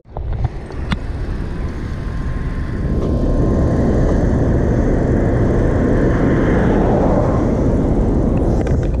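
Steady road and traffic rumble, with a faint thin whine between about one and a half and four seconds in.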